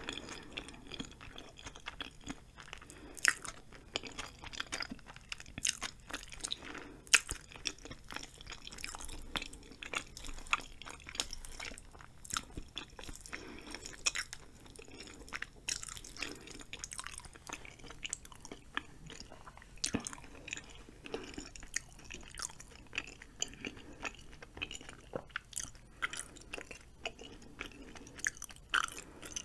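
Close-miked chewing of spicy ramen noodles and chewy rice cakes, with irregular wet, sticky mouth clicks and smacks.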